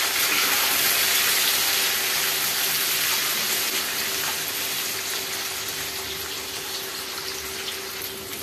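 Chopped tomatoes and spices sizzling in hot oil in a nonstick kadhai while they are stirred with a plastic spatula; the steady hiss slowly fades as the tomatoes cook down, over a faint steady hum.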